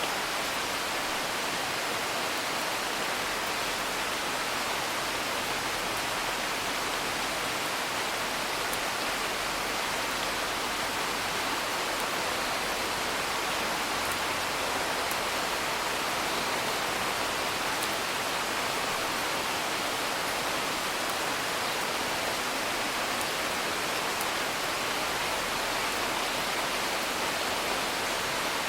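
Steady, even rain, with a few faint sharp crackles from a wood fire now and then.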